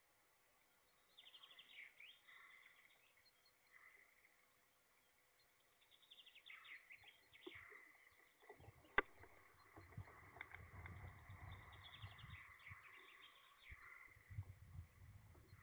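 Faint bird calls in a few short, rapid bouts, with a single sharp click about nine seconds in and a low rumble through the second half.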